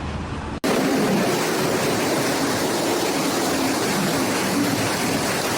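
Steady, loud rush of storm noise: a dense hiss and roar of wind, rain or rushing water. It follows an abrupt cut about half a second in from a duller, deeper rumble.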